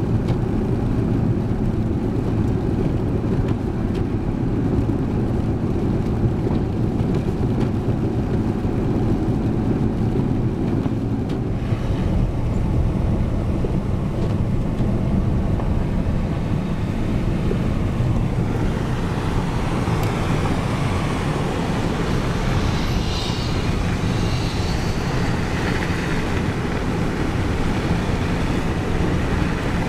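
Steady low engine and road rumble inside a four-wheel-drive pickup's cab as it drives through a snowstorm. About two-thirds of the way through, a higher hiss joins the rumble.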